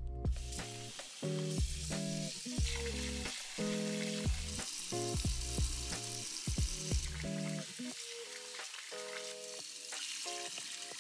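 Food sizzling as it fries in a hot pan, a steady hiss, with soft background music over it.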